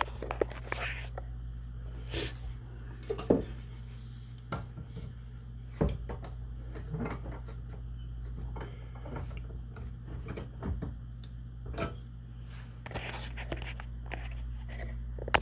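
Scattered light clicks and knocks of shotgun parts and tools being handled at a workbench vise, over a steady low hum.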